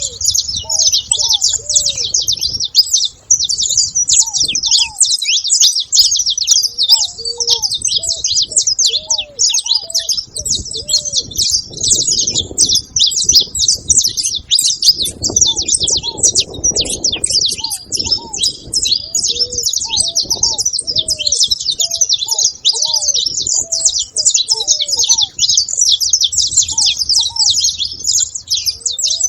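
A flock of saffron finches chirping together in a dense, unbroken chatter of many overlapping high chirps. Lower, short repeated call notes sound underneath throughout.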